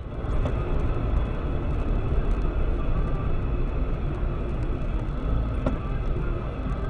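Steady low rumble of a car on the move, engine and road noise as picked up by a dashcam, with a few faint ticks.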